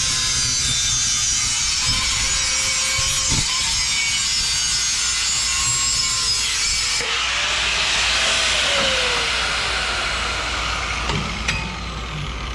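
Power tool cutting 2.5-inch mild steel exhaust tubing, a steady hissing grind. About seven seconds in the sound changes and a tone slides down in pitch, and the cutting eases off near the end.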